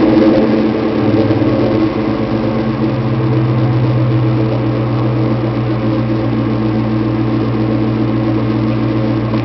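1997 Ford Mustang GT's 4.6-litre V8 idling steadily through a Bassani X-pipe and Flowmaster mufflers, with a slight drop in level about two seconds in.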